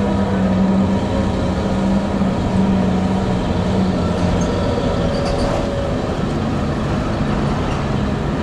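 Old Toyota DA100 truck's diesel engine running with a loud, steady drone and low rumble. The drone eases a little about halfway through.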